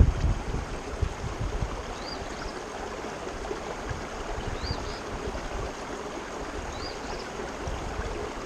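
Creek water running, a steady rushing, with a faint short high chirp repeating about every two and a half seconds.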